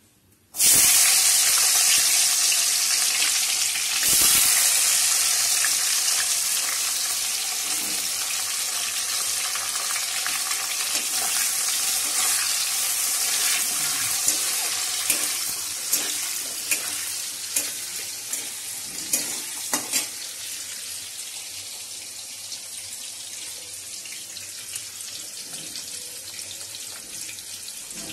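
Chopped green vegetables hitting hot oil in a metal wok: a loud sizzle starts suddenly, surges again a few seconds later, then slowly dies down as they fry. A metal spatula stirs and knocks against the wok, with sharp clicks partway through.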